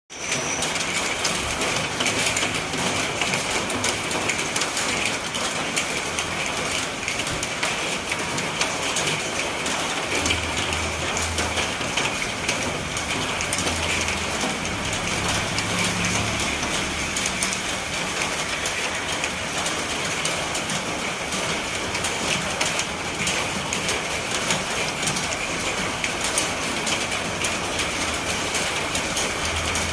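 Steady rain falling, a continuous dense hiss of drops with a constant high band running through it.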